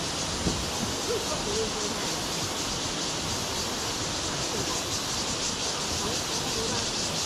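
Mountain stream water rushing steadily over rocks, a constant even hiss.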